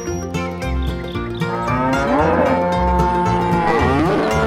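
A cow mooing: one long call in the second half, over background music with a pulsing bass line.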